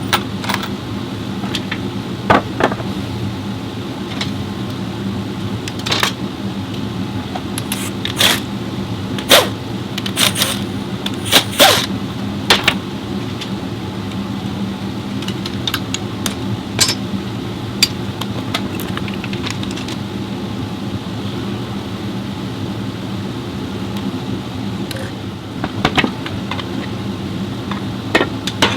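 Metal tools clinking and knocking on car parts at irregular intervals, in sharp single strikes that come thickest around the middle, over a steady low machine hum.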